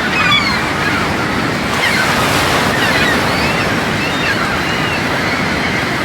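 Ocean surf rushing loud and steady under strong wind, with many thin high-pitched squeaks scattered through it.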